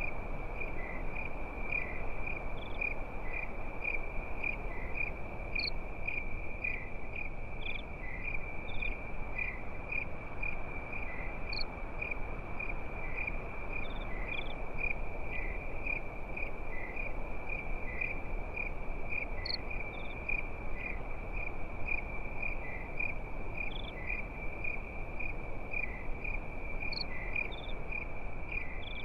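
Crickets chirping in a steady, rapid, high-pitched rhythm, with a second insect giving a higher single call every few seconds, over a soft steady hiss.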